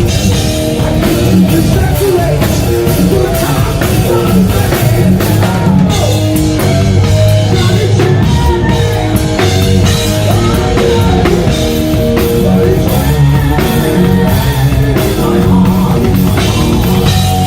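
Live hard rock band playing: drum kit, bass and electric guitars, with a lead guitar or singing voice bending in pitch over the top.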